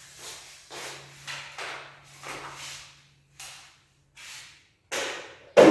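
A run of short swishing rustles, about one or two a second, from things being handled, then a sudden louder knock near the end.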